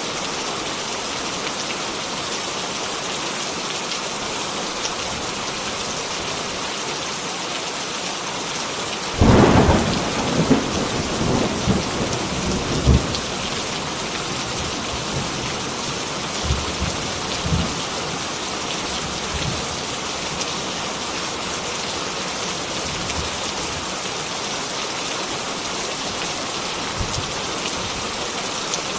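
Heavy rain falling steadily. About nine seconds in a loud thunderclap breaks in and rumbles on for several seconds, with fainter low rumbles of thunder after it.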